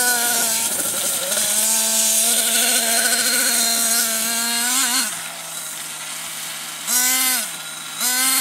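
Nitro RC monster truck's small glow-fuel two-stroke engine held at high revs for about five seconds, then dropping to idle, with two short throttle blips near the end.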